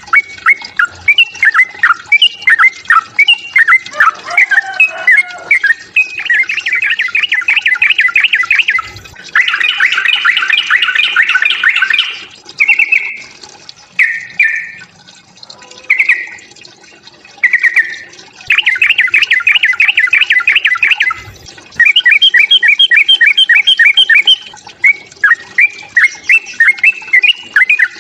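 Yellow-vented bulbul (trucukan) giving its aggressive 'fighting' song: loud, bubbly chattering phrases broken by several fast, rattling trills of about two to three seconds each.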